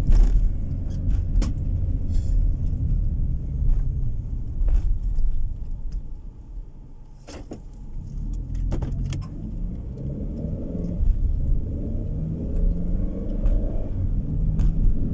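Car engine and tyre noise heard from inside the cabin, with scattered sharp clicks and rattles. The noise dips for a couple of seconds near the middle, then the engine note climbs as the car picks up speed.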